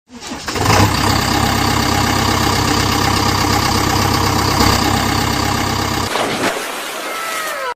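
Engine starting and then idling steadily; the low rumble drops away about six seconds in and the sound cuts off abruptly at the end.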